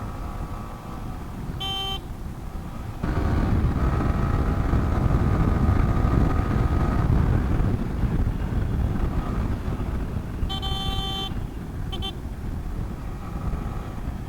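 Road and wind noise of a motorcycle riding along a busy highway, suddenly louder about three seconds in, with vehicle horn honks: a short one near the start, a longer one about ten seconds in, and a quick one right after.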